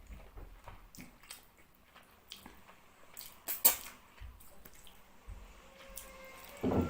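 Close-up eating sounds of fish curry and rice: wet squelches and lip smacks of chewing, with scattered small clicks and one sharp click about halfway through.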